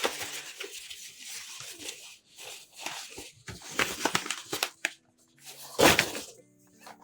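Crinkling and rustling as a bouquet is handled, in many small crackling strokes, with a louder crunch about six seconds in.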